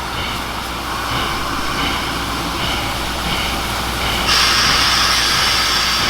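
Steam train running, with a faint rhythmic beat that repeats a little more than once a second. About four seconds in, a louder steady hiss starts suddenly and continues.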